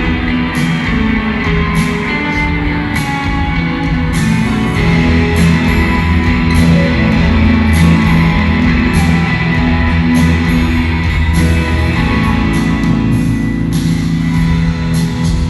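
Rock band playing live, an instrumental passage of guitar over drums with regular cymbal hits and no singing.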